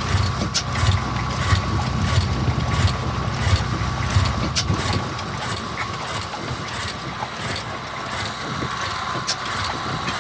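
Vintage stationary engine running, with a slow regular beat of sharp clicks over low thudding pulses; the thudding weakens about halfway through.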